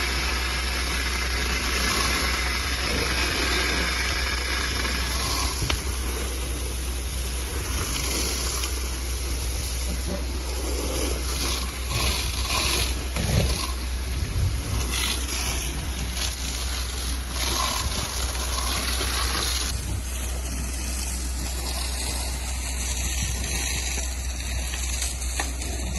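Fire engine running steadily under a continuous hiss of water spraying from the hoses.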